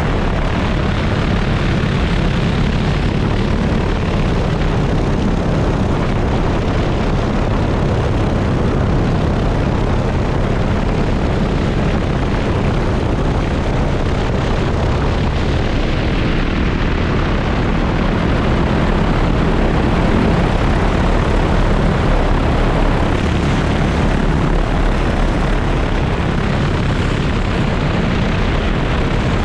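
Agricultural multirotor spray drone's propellers running steadily in flight: a loud, deep, even whir with no change in pitch.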